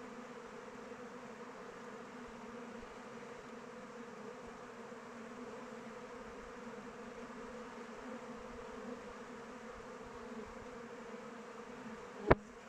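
Honeybees flying around their hive, a steady many-bee buzzing hum. One sharp click near the end.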